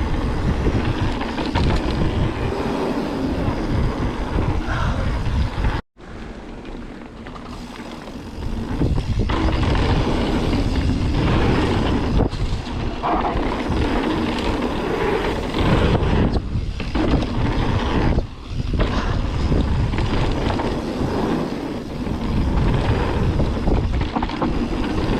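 A mountain bike riding down a dirt trail, with wind rushing over the microphone and the tyres and bike rattling over the ground. The sound cuts out abruptly about six seconds in, comes back quieter, and rises to full level again a couple of seconds later.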